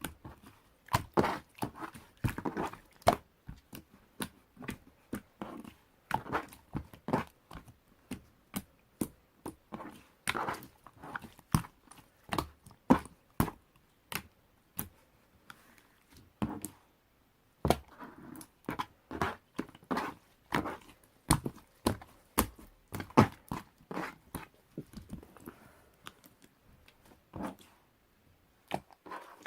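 Marbled slime being squished and worked by hand, giving a quick, irregular run of sharp clicks and pops, several a second.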